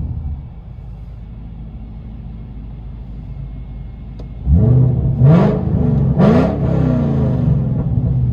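2012 Shelby GT500's supercharged 5.4-litre V8 with long-tube headers and a Corsa Xtreme exhaust, heard from inside the cabin. It falls from a rev to a steady low idle, then is revved sharply twice in quick succession about five and six seconds in before running at a fast idle.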